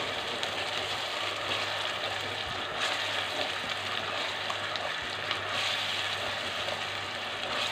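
Onion and tomato paste frying in hot oil in a pot, a steady sizzle, while it is stirred with a spatula. The masala is being fried down in the oil.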